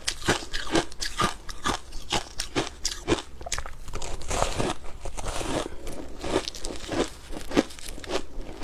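Close-miked ice being bitten and chewed, with sharp crunches coming several times a second and a denser stretch of crackling about halfway through.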